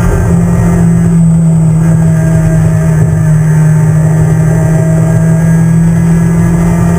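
Toyota Corolla AE92 race car's 1.6-litre four-cylinder engine running hard at high, steady revs, heard from inside the cabin. The pitch holds nearly constant throughout.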